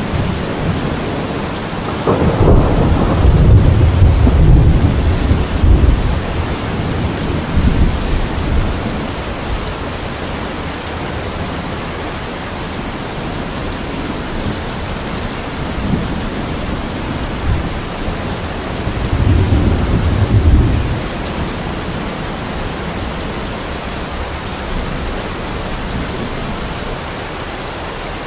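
Heavy rain falling steadily, with a loud rolling thunderclap about two seconds in that rumbles on for several seconds, and another lower rumble of thunder about two-thirds of the way through.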